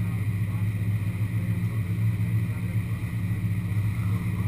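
Muscle car engine idling with a steady low rumble and a slight pulse, not revving.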